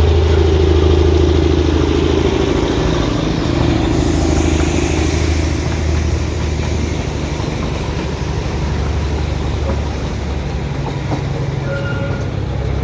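Vehicle engine running steadily, a low hum with a rumble above it that eases after about five seconds.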